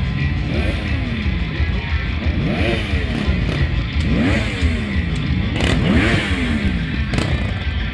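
Suzuki GSR 750's inline-four engine revved repeatedly while standing, the pitch climbing quickly with each blip of the throttle and sinking back more slowly, about every one and a half to two seconds.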